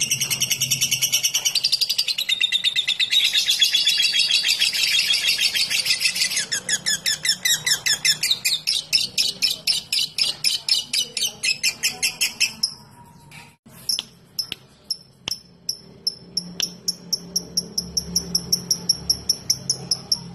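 Lovebird's long chattering trill (ngekek), a fast unbroken run of shrill notes that breaks off about thirteen seconds in. After a few clicks, a steady, evenly spaced high chirping follows.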